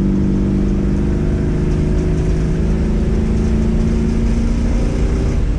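Buick 455 big-block V8 accelerating hard under load through a Walker Dynomax exhaust, its note climbing slowly and steadily. This is a break-in pull on a freshly rebuilt engine to seat the piston rings, and the engine does not rev very high.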